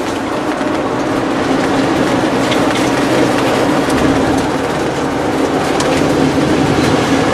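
Steady road noise of a car being driven, rising a little in level over the first couple of seconds and then holding.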